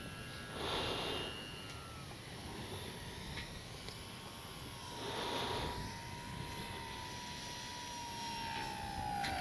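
E-flite Sportix electric RC plane's motor and prop whining faintly at low throttle on approach. The thin pitch slowly falls, dropping further near the end. Two soft breathy swells of noise come about a second in and about halfway through.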